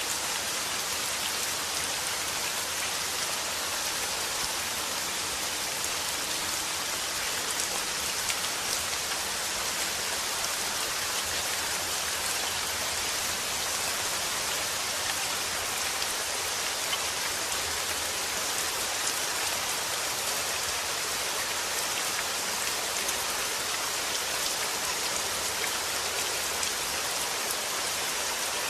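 Steady rain falling, with the patter of many drops on a surface.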